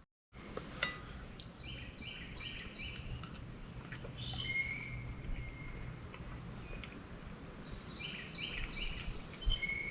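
A songbird singing: two runs of quick, stepped chirps, with a clear held whistled note after each, over steady outdoor background noise.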